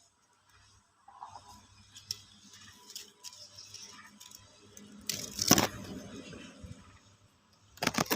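Rustling and crackling handling noises, with sharp clicks and crackles about five seconds in and twice more near the end.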